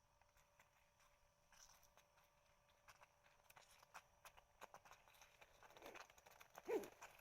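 Faint, scattered clicks and light knocks of handling gear close to the microphone, getting busier towards the end, with one louder short squeak near the end.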